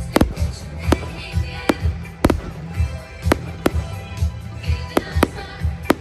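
Fireworks going off in sharp, separate bangs at uneven intervals, about eight or nine in a few seconds, over music with a steady thumping bass beat.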